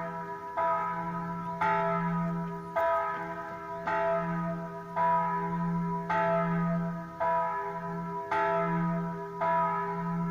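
Church bells ringing, struck about once a second, each strike ringing on into the next over a steady low hum.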